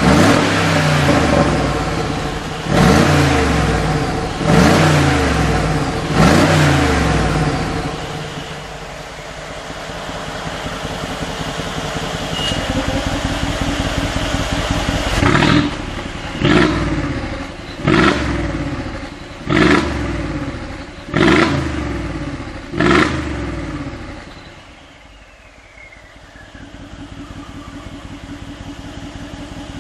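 Mercedes G63 twin-turbo V8 with a Brabus exhaust, blipped hard four times and then idling. A quicker run of six sharp revs follows, and the engine then settles back to a quieter idle.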